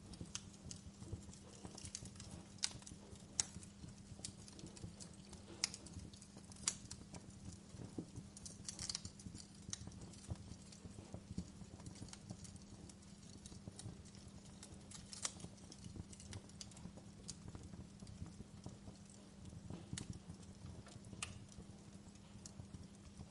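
Wood fire crackling in a fireplace: irregular sharp pops and snaps, a few louder ones in the first seven seconds, over a faint low steady hum.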